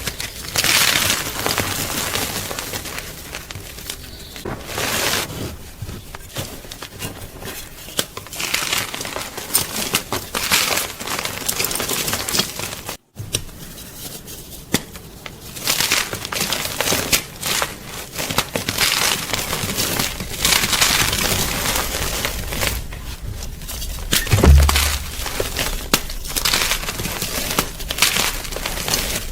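Gym chalk being crunched and crumbled: dry crackling crunches that come in waves, with a brief dropout about halfway and a short low thump near the end.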